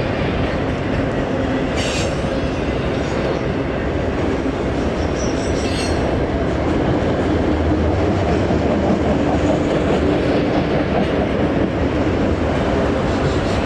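CSX manifest freight train's cars rolling past at track speed: a steady loud rumble of steel wheels on rail, with two brief sharp high sounds about 2 and 6 seconds in.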